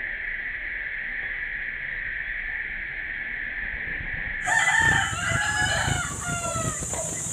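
A steady hiss, then, about four and a half seconds in, a rooster crowing over a steady high-pitched background tone.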